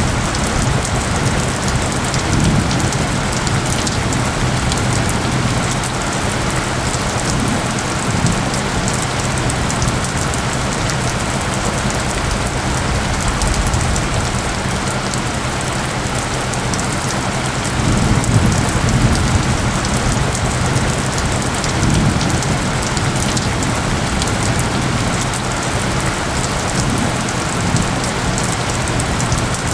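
Steady rain falling, a dense even patter, over a low steady hum of isochronic tones. A low swell rises briefly about eighteen seconds in.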